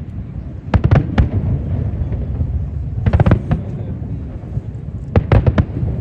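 Aerial fireworks bursting: three quick clusters of sharp bangs about two seconds apart, with a low rolling rumble between them.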